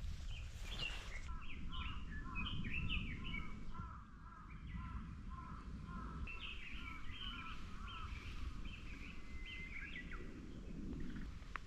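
Small birds chirping and twittering in a continuous run of short calls, over a steady low rumble of outdoor noise.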